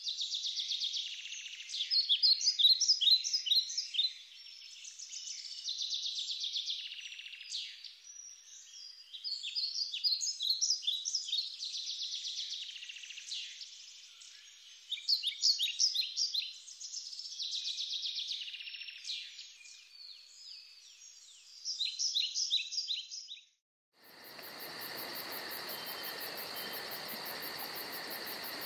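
Songbirds singing in repeated short phrases of quick, clear notes. About two thirds of the way through, the birdsong cuts out suddenly and gives way to a steady, fast insect chirring, as of crickets or grasshoppers, over a hiss.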